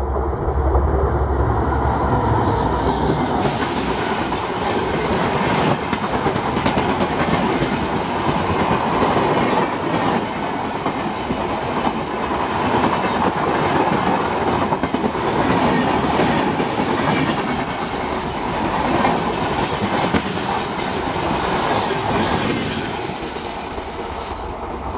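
Express passenger train passing at speed: wheels clattering over the rail joints with a dense rushing noise as the coaches go by, easing off slightly near the end as the last car passes.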